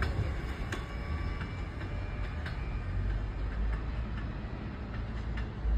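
New York City subway train running, a steady low rumble with scattered sharp clicks.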